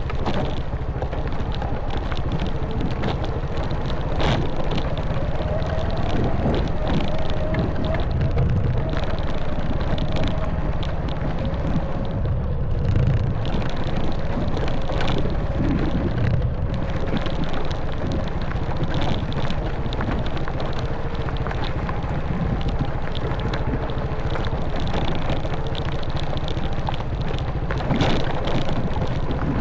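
Honda Wave 110cc single-cylinder four-stroke motorbike engine running steadily while riding, with wind on the microphone and scattered short knocks from the bike over the rough track.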